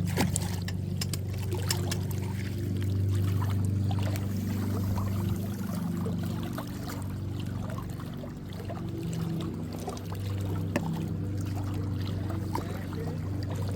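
Boat motor running steadily with a low hum, with water trickling and splashing faintly over it and a few small clicks.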